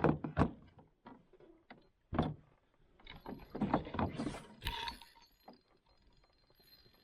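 Fishing reel being cranked while a hooked fish is played from a canoe: irregular mechanical clicks and knocks, with a few heavier thumps about half a second and two seconds in.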